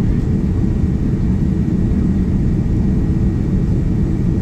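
Steady low rumble of a Boeing 787-9 Dreamliner in flight, its engines and airflow heard from inside the passenger cabin.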